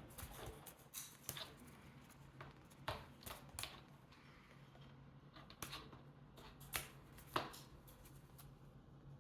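Cockatiel splashing and fluttering in its bath water: irregular sharp splashes and flicks, a dozen or so scattered through, the loudest about three seconds in and again near the end.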